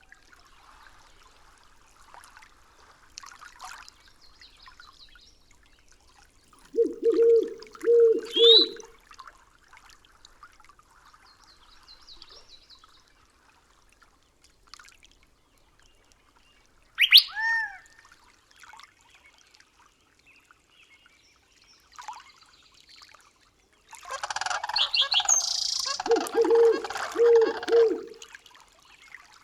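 Forest birdsong: scattered chirps and whistles with a sharp falling whistle about halfway through. Short runs of three or four low hooting notes come about seven seconds in and again near the end, under a burst of busier calling.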